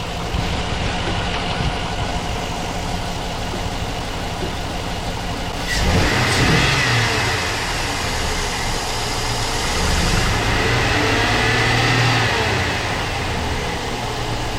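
2006 GMC Sierra's 5.3-litre LS V8 idling, then revved up about six seconds in and again around ten seconds before settling back. The engine is running well.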